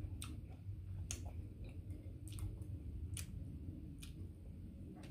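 A person eating mango: about seven sharp, wet mouth clicks spaced irregularly, over a low steady hum.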